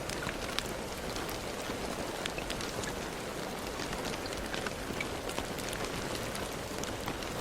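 Steady rain falling, a constant hiss dotted with the sharp ticks of individual drops striking a surface.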